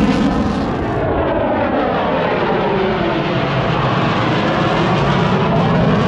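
Airplane flying past, its engine a loud steady roar with pitch lines sliding downward as it goes by.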